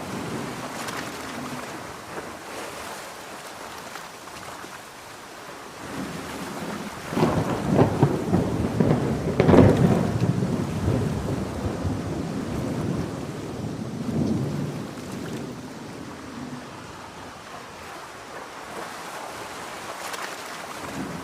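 Heavy rain falling steadily, with thunder rolling in: a long rumble builds about seven seconds in, peaks a few seconds later and dies away, a weaker roll follows, and another begins near the end.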